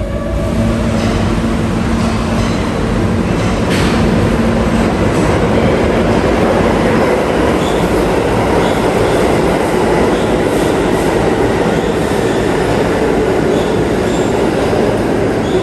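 A New York City Subway train running through the station. Its wheels rumble steadily on the rails, growing louder about four seconds in, with a few short high wheel squeals.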